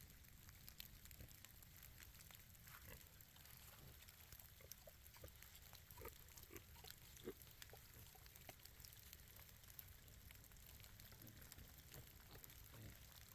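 Berkshire pigs grunting faintly, in short scattered grunts.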